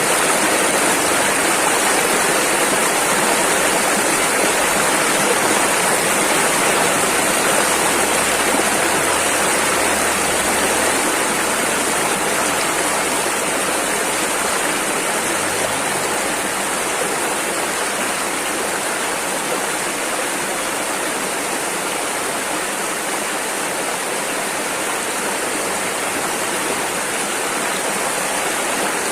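Rushing river water flowing over rapids: a steady, dense rush.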